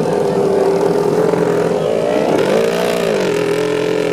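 Sport motorcycle engine idling steadily, revved once about two and a half seconds in, its pitch rising briefly and falling back to idle.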